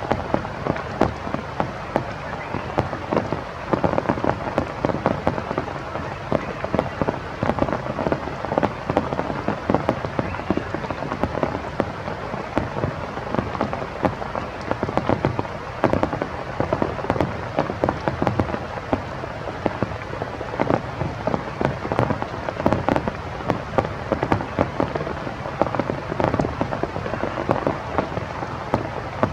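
Steady rain falling, with a dense spatter of close drop impacts on nearby surfaces.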